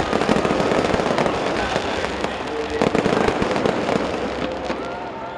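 Aerial fireworks bursting in rapid succession: a dense barrage of crackling pops and bangs. Near the end, whistling shells begin to sound.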